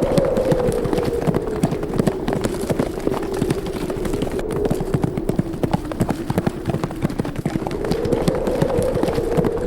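A herd of horses galloping, a fast, dense patter of hoofbeats, over a howling wind that sinks in pitch through the middle and rises again near the end.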